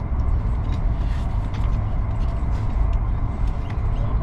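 Steady low rumble of a high-speed train running on the line, heard from inside the passenger carriage, with faint scattered ticks over it.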